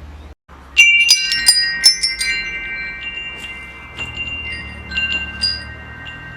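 Metal wind chimes: a quick cluster of strikes about a second in sets several bright, high tones ringing on together, with a few lighter strikes following later.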